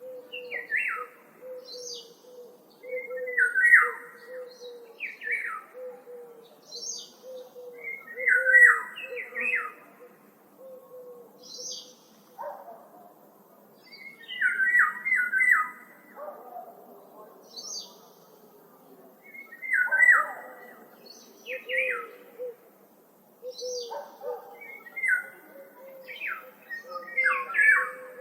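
Forest songbirds singing: short, chirpy phrases repeated every few seconds, over a steady run of lower short notes.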